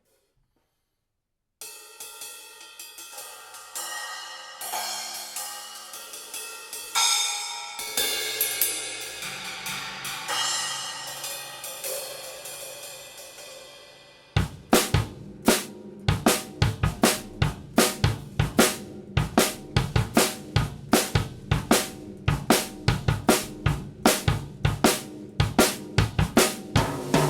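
Acoustic drum kit played live, unmixed, starting after a moment of silence. Crashing and ringing cymbals with scattered drum hits come first. About halfway in, the player settles into a steady beat of bass drum and snare, two to three strokes a second, under the hi-hat and cymbals.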